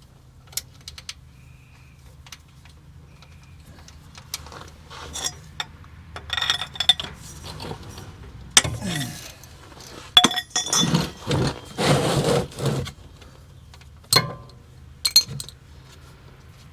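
Wrench and metal tools clinking and scraping while loosening a transmission drain plug, in scattered sharp clicks, with a run of louder, rougher bursts about ten to thirteen seconds in.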